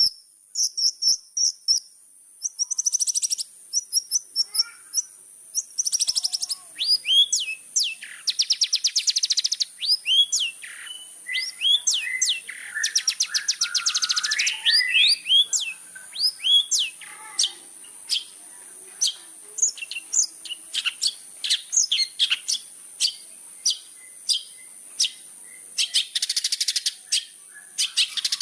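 Long-tailed shrike (cendet) in full song: a fast, varied run of sharp chirps and quick up-and-down notes, broken by several buzzy rattling trills, over a steady high-pitched whine.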